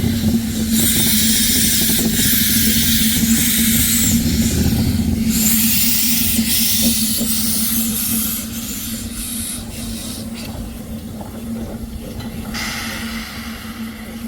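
Narrow-gauge steam locomotive venting steam: long bursts of hiss over a steady low hum, easing after about eight seconds, with one more short burst of hiss near the end.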